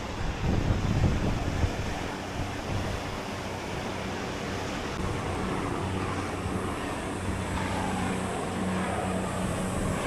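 Helicopter flying over, a steady low engine and rotor hum that grows stronger in the second half, over the wash of ocean surf and wind buffeting the microphone, with a heavier gust about a second in.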